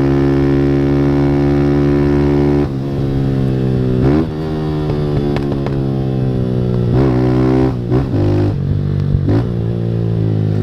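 Honda CG 160 single-cylinder four-stroke engine through an aftermarket Fortuna Trioval exhaust. It holds steady revs, then drops off suddenly about three seconds in. Through the rest it revs up and falls back several times as gears are shifted hard.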